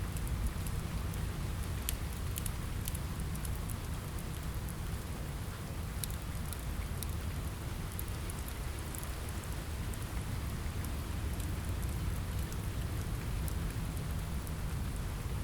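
Steady rain on a window over a deep low rumble, mixed with a fireplace's small, sharp crackles scattered throughout.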